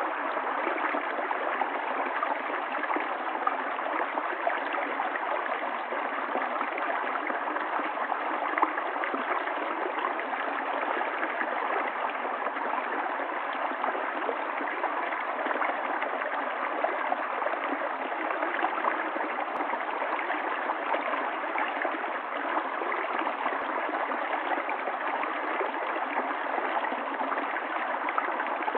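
Running water of a stream, a steady rush flecked with small splashes that never lets up.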